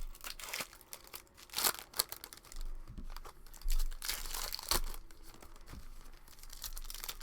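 Plastic trading-card pack wrappers being torn open and crinkled by hand, in irregular bursts, loudest about a second and a half in and again around four seconds in.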